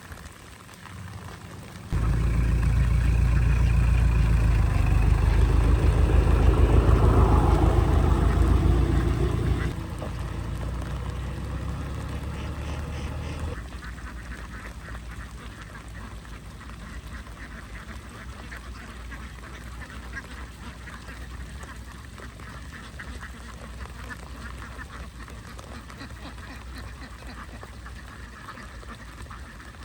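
A large flock of domestic ducks quacking continuously. For the first part a loud low rumble sits over them, dropping away about a third of the way through, after which the dense quacking of the flock carries on alone.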